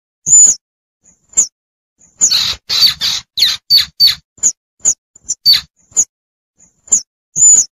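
Young squirrel calling for its mother, the lure call hunters play to draw in the adults: short, sharp, high-pitched chirps, with a quick run of chirps from about two to four seconds in.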